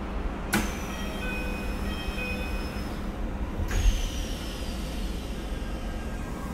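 Running sound inside a Keikyu New 1000 series train with Siemens inverter drive: a steady low rumble under a thin, high inverter and motor whine. Two sharp clicks about half a second and nearly four seconds in are each followed by a whine that slides down in pitch.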